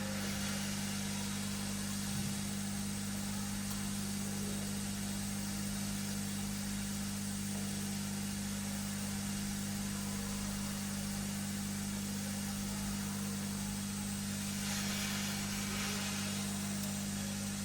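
Hot air rework gun blowing steadily while heating a small capacitor for soldering: an even motor hum with airy hiss, the hiss swelling slightly near the end.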